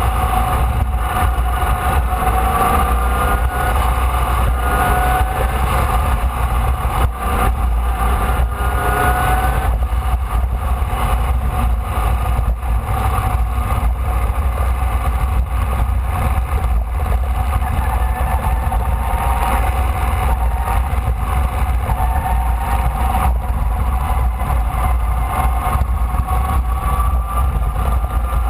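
Air-cooled Volkswagen flat-four engine of a Formula Vee race car, heard onboard at racing speed, its pitch climbing again and again as it pulls through the gears. Heavy low wind rumble buffets the camera microphone throughout.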